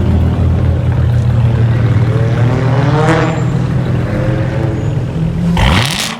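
Loud car exhaust running with a steady low rumble and small revs, ending in a sharp, noisy burst and a quick drop in pitch just before the end.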